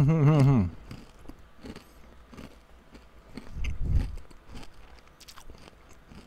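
Chewing a crunchy sesame-and-almond snack, with small crisp crackles throughout. It opens with a loud, wavering hummed "mmm" of enjoyment, and there is a low muffled thump about four seconds in.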